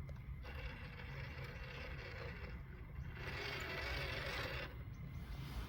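Small electric motor and gearbox of a WPL RC model truck running, a whirr that starts about half a second in, grows louder about three seconds in, and stops near the end, over a low rumble.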